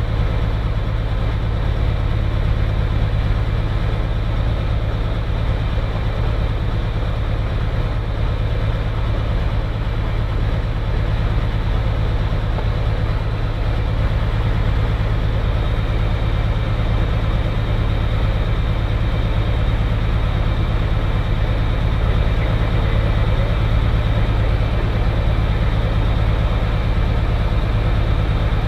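Cirrus SR20's single piston engine running steadily, a low even drone heard from inside the cockpit.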